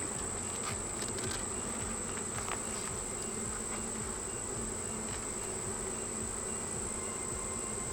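Honeybee colony buzzing steadily around an opened hive during an inspection, a continuous even drone of many bees in flight and on the frames. A steady high-pitched tone runs through it.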